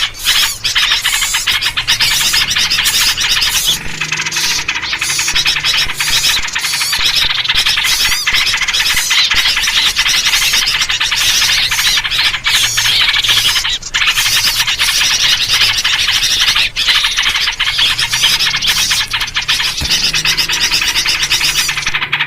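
Loud, unbroken chatter of many small birds with yellow-vented bulbul calls in the mix: a noisy bird-lure recording meant to draw birds in for trapping.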